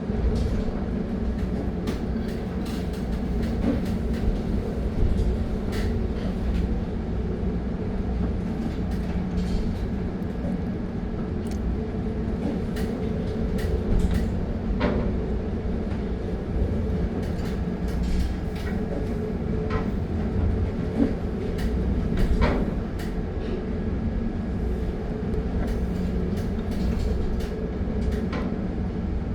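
Steady low rumble and hum aboard a bulk carrier labouring in a storm, with frequent sharp clicks, knocks and rattles throughout.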